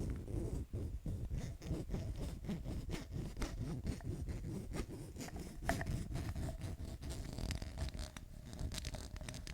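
Fingers scratching and tapping on an object close to the microphone, in a quick, uneven run of short scraping strokes and light clicks.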